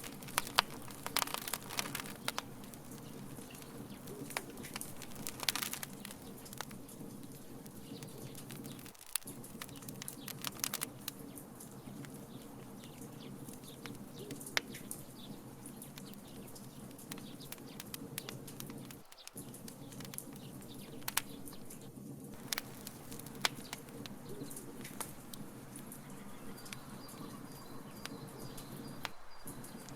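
Wood fire crackling, with scattered sharp snaps and pops over a steady low rumble of burning.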